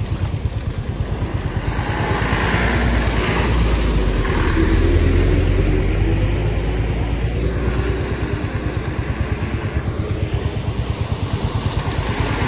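Royal Enfield Meteor 350's single-cylinder engine running at low revs with an even thump, growing louder a few seconds in and easing off again.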